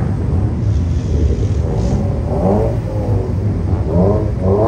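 Car engine running with a steady low rumble, revving up briefly about two seconds in and again near the end.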